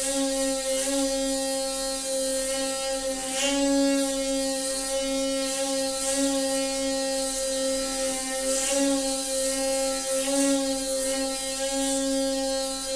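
Noisy water pipe humming: a steady, buzzing pitched drone with a slight flutter, over a hiss of flowing water.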